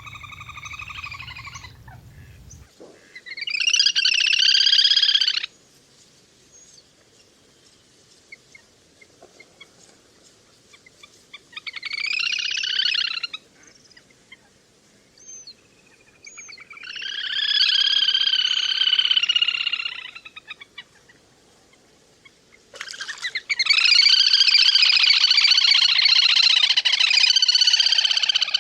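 Lesser whistling ducks (le le) calling in bursts of high, wavering whistled chatter, separated by pauses. The last burst, about twenty-three seconds in, is the longest, with several birds calling over each other: a flock call of the kind played to lure the birds in.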